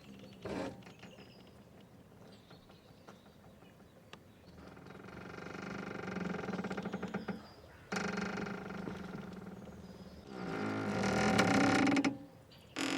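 A boat's rope squeaking and creaking in drawn-out, pitched creaks. There is a brief one near the start, a long swelling one from about a third of the way in, and the loudest a little before the end.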